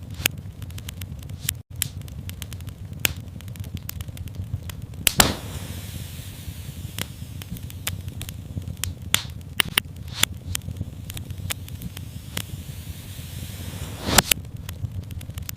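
Wood fire in a fireplace crackling, with irregular sharp snaps and a few louder pops over a low, steady rumble of the flames.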